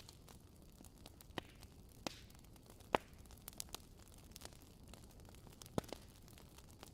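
Wood fire crackling: a soft low rumble with scattered sharp pops, the loudest about three seconds in and another near the end.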